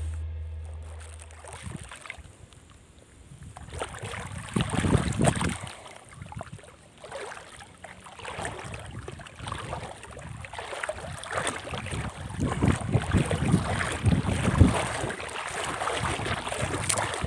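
Strong wind buffeting the microphone in uneven gusts, with low rumbles as each gust hits.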